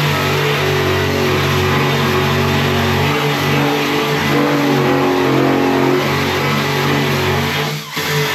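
Handheld electric power tool with a wire wheel or abrasive disc running against the steel of a car door to strip it to bare metal. The motor runs steadily, its pitch sagging and recovering as it is pressed into the metal, over a hiss of the wheel on the steel. It dips briefly near the end.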